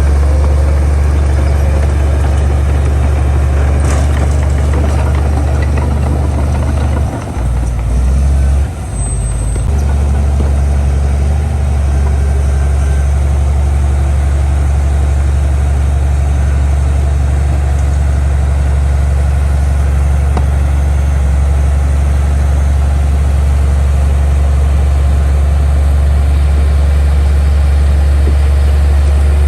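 Heavy diesel engine of earthmoving machinery running steadily with a loud, deep hum. Its level dips briefly about 7 and 9 seconds in.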